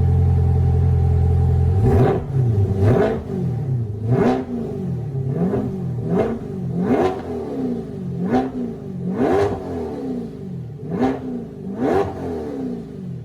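2020 C8 Corvette's 6.2-litre V8 through a 3-inch stainless cat-back exhaust with X-pipe and factory catalytic converters, running steadily for about two seconds and then revved in about nine quick throttle blips, roughly one a second, each rising and falling sharply.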